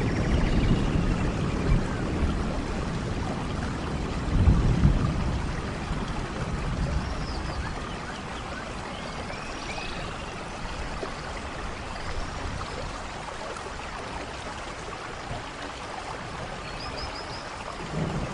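Steady rainfall, with a low rumble of distant thunder in the first five seconds that fades and then swells again at the very end. Faint high chirps come and go over the rain.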